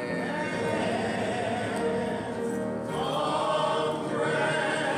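Church choir singing a gospel hymn, voices held in long sustained notes.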